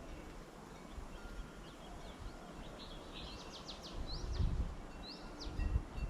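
Small birds calling outdoors: a quick run of high chips, then two separate rising whistled notes. Two brief low rumbles, like wind or a knock on the microphone, come about halfway through and near the end.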